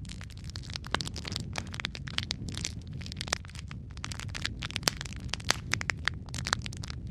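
Wood logs burning in a fireplace, crackling and popping with many irregular sharp snaps over a steady low rumble of the flames.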